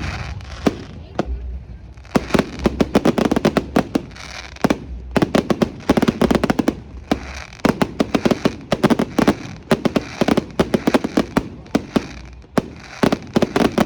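Fireworks going off: rapid clusters of sharp crackling bangs, each run lasting a couple of seconds, with short lulls between them.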